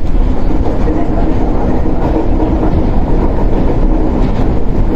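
Shinano Railway 115-series electric train under way, heard from inside motor car KuMoHa 115-1013: a steady rumble of wheels on rail with a faint steady hum from the running gear.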